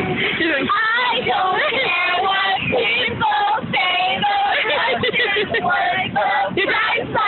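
High-pitched young female voices singing, holding and sliding between notes with short breaks.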